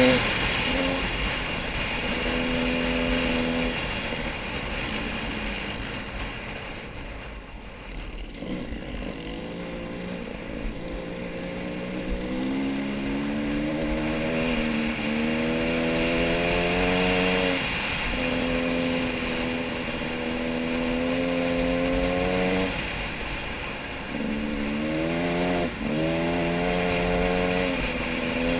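A vehicle engine running and revving. Its pitch climbs in several sweeps, holds steady for a few seconds at a time, and eases off and climbs again as the speed changes.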